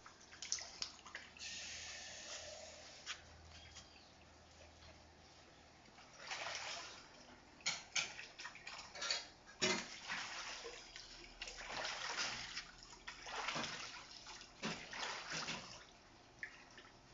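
Rainwater pooled on a swimming-pool cover splashing and sloshing in repeated bursts, with quieter pauses between them.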